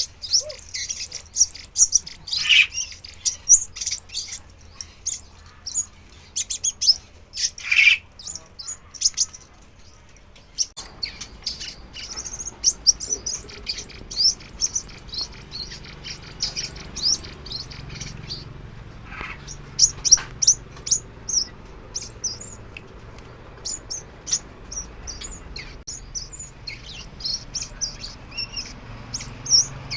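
Sunbird singing: quick runs of thin, high chirps and twitters in bursts, with a few louder, sharper calls mixed in.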